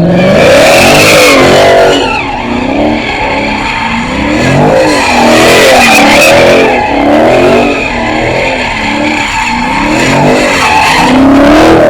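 A car engine revving up and down again and again, about once a second, loud, with tyres squealing and skidding: a car doing a burnout or spinning donuts.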